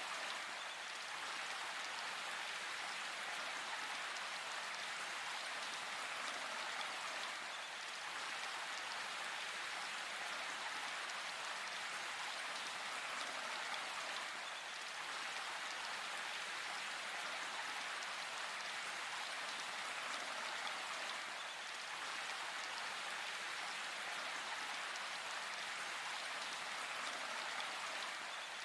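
Steady rain falling in a forest, an even hiss of drops.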